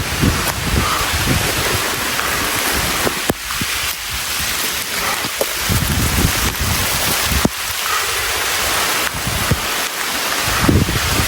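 Steady hiss of rain falling. Low gusts of wind on the microphone come and go, with a few sharp taps.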